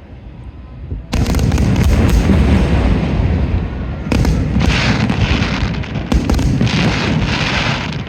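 Fireworks display: about a second in, a dense barrage of bursts and booms starts suddenly and keeps going without a break, with crackling surges about four and six seconds in.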